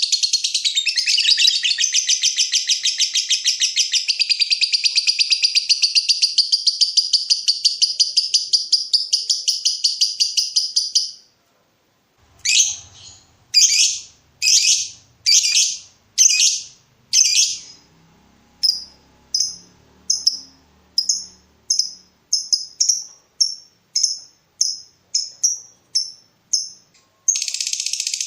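Lovebird's long, rapid chattering trill (ngekek), high-pitched and unbroken for about eleven seconds. After a short pause come single shrill calls about one every 0.7 s, which give way to shorter chirps that come faster. The chattering trill starts again near the end.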